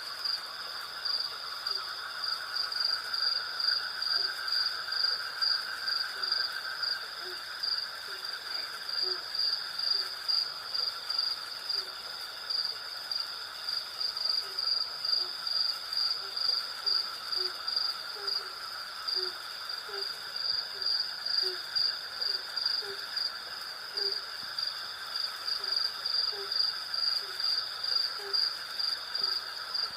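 Night insect chorus: crickets chirping in an even pulsing trill, about two pulses a second, over a steadier, lower insect drone. From about a quarter of the way in, short low calls repeat roughly once a second.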